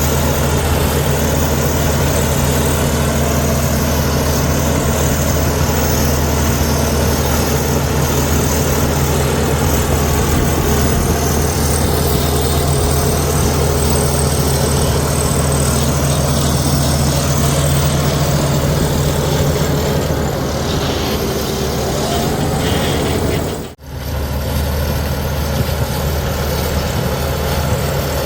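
Heavy diesel engine of earthmoving machinery running steadily, with a deep low drone. Near the end the sound cuts out for a moment and then carries on as before.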